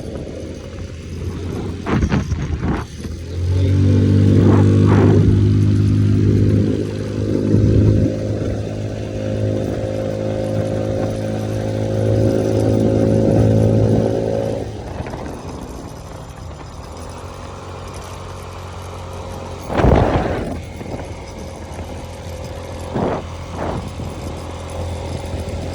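Small moped engine running under steady throttle, its pitch held level for about ten seconds before easing back to a lower hum, with road noise and a few short knocks from the ride.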